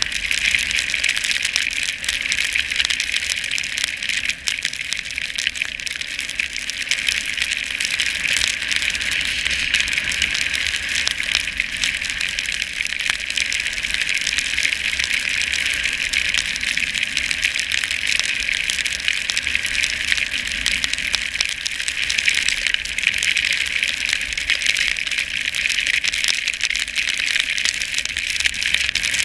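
Steady hiss and crackle of a rider sliding downhill over snow, with a low wind rumble on the microphone.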